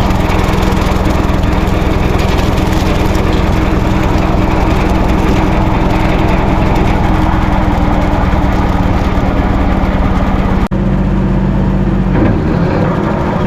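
Mahindra 1626 sub-compact tractor's diesel engine running steadily under work. It breaks off for a moment about ten seconds in, then rises in pitch near the end as it revs up.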